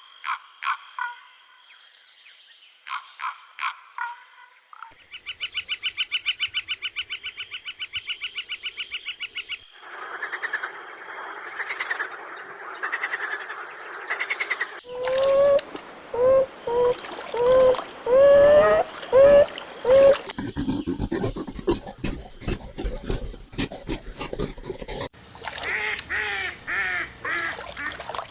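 A series of different animal calls one after another: short pulsed calls, a fast rattling trill of about ten pulses a second, a noisy chorus of calls, then a run of short rising calls and clicks.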